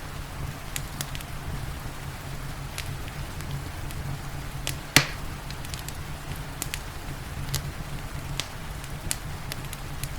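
Wood fire crackling, with scattered sharp snaps and one louder pop about halfway through, over a steady low rumble and the even hiss of rain.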